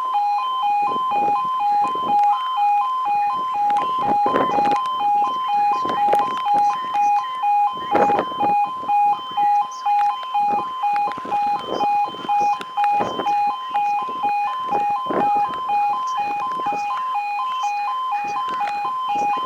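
British level crossing warning alarm sounding its two-tone 'yodel', a lower and a higher tone alternating steadily several times a second, which signals the barriers are down for an approaching train. Irregular patters and knocks, typical of heavy rain, sound over it.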